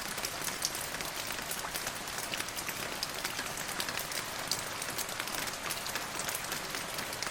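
Steady rain with many distinct drops ticking on a hard surface over a continuous hiss.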